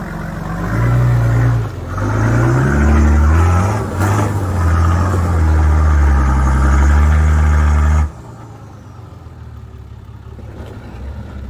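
Four-wheel-drive engine revving under load, its pitch stepping up and down as the throttle is worked. About eight seconds in it falls away suddenly to a quieter, steady idle.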